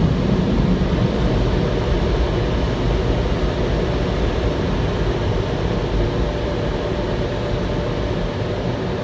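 Automatic drive-through car wash machinery running with a steady loud rush and low rumble.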